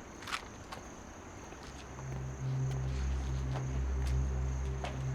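Crickets trilling steadily, with a few soft ticks. A low droning music score swells in about two seconds in and becomes the loudest sound.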